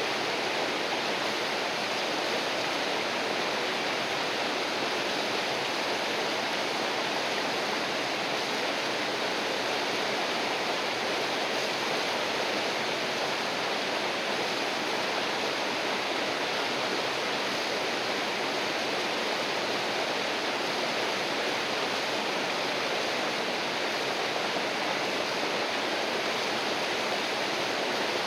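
River water rushing, a steady, unbroken sound with no distinct splashes or changes.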